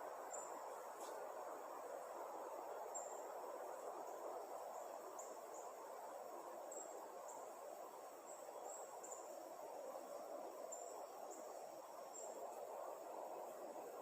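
Small birds giving short, high chirps at irregular intervals, faint over a steady background hiss.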